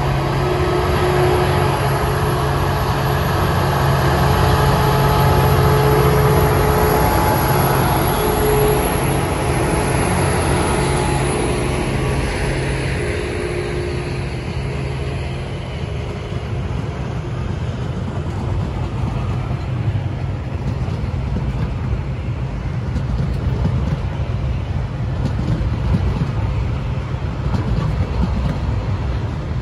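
TasRail TR-class diesel locomotives pass with their engines running, giving a steady low drone that fades after about twelve seconds. A string of loaded log wagons follows, rolling past with a continuous rumble of wheels on the rails.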